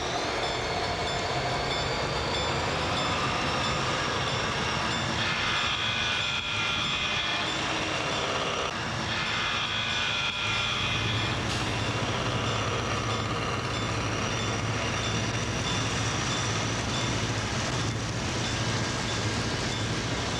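Train running with a steady rumble, its horn sounding twice in long blasts of about two seconds each, a couple of seconds apart.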